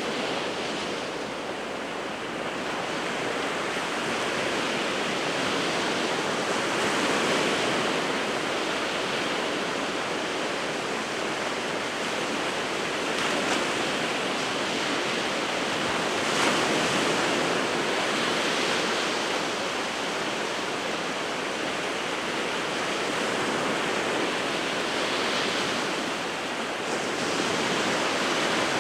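Winter surf on the Sea of Japan: waves breaking and washing ashore in a continuous rush that swells and eases in slow surges every few seconds.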